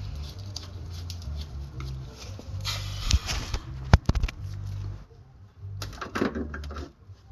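Metal clinking and rattling as the spindle nut is fitted onto the front wheel spindle and tools are handled, with one sharp metallic knock about four seconds in.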